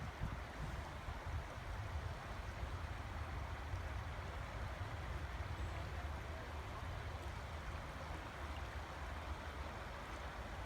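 River water flowing with a steady rush, under a low, uneven rumble of wind on the microphone.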